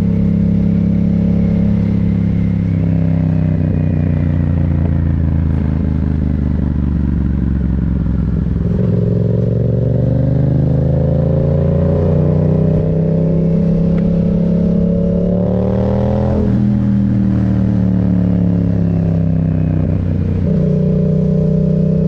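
Yamaha MT-07's parallel-twin engine under way: it runs steadily, eases off with falling pitch, then pulls hard with a long rising pitch about halfway through. The pitch drops sharply at about 16 seconds, like a gear change or closing the throttle, sinks again, then jumps back up near the end.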